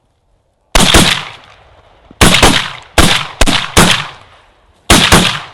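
A volley of shotgun blasts from several hunters firing together: about nine loud shots in quick, overlapping clusters, each with a fading echo.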